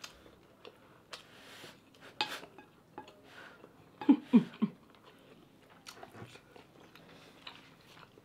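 Close-up eating sounds: chewing and biting on braised pork and rice, with occasional small clicks. About four seconds in come three quick hummed 'mm' sounds.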